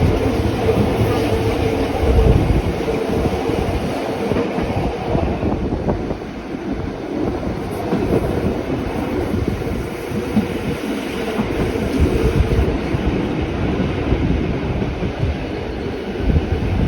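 Rhaetian Railway regional train running, a steady rumble of wheels on the track with uneven low knocks. A steady tone sounds over it for the first few seconds, then fades.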